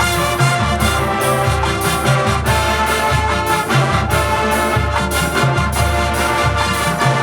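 High school marching band playing, brass section carrying sustained chords over a moving bass line, with a steady beat of evenly repeated hits.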